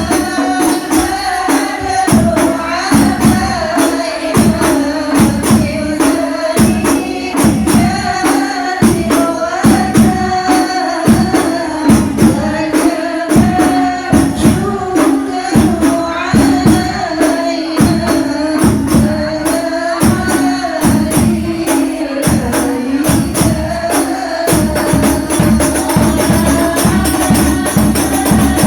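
Sholawat devotional song: voices singing together over a steady beat of hand-struck frame drums with jingles.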